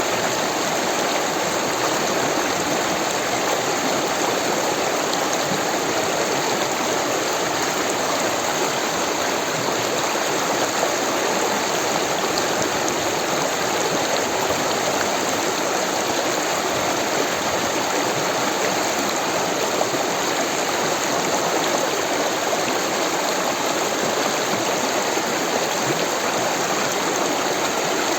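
Rushing water of a stream, a steady even rush with no changes.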